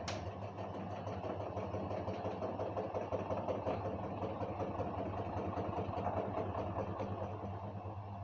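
LG WD-1054FB washing machine running with a steady motor hum and a rough, rapid mechanical rumble from the drum, slightly louder in the middle. There is a sharp click right at the start.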